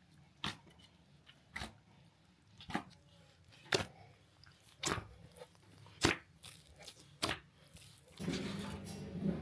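Footsteps crunching in deep snow, one step about every second. Near the end a steadier, louder low sound takes over.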